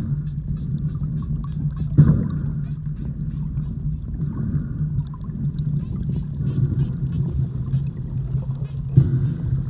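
Spinner dolphins clicking in rapid, continuous trains of short clicks, with small high chirps among them, over a steady low hum. Two louder dull swells come through, about two seconds in and near the end.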